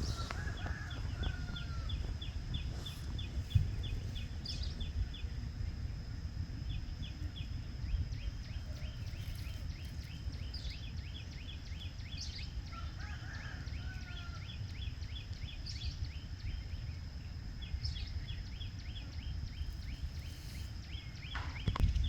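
Outdoor nature ambience: a steady low rumble of wind on the microphone, a high steady insect drone, and runs of high rhythmic ticking at about five a second from insects. A short bird call comes in about half a second in and again about halfway through.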